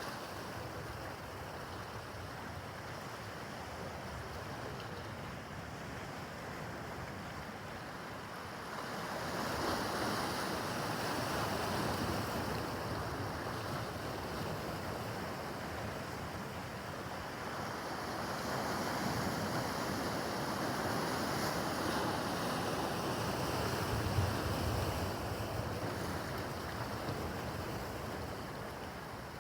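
Rough harbor water washing and slapping, with wind rushing over the microphone. The noise swells louder about a third of the way in and again past the middle.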